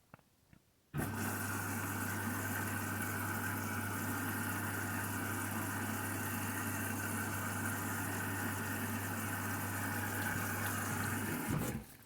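Candy washing machine filling for the main wash: the water inlet valve opens about a second in with a steady low hum while water rushes in, then cuts off suddenly near the end.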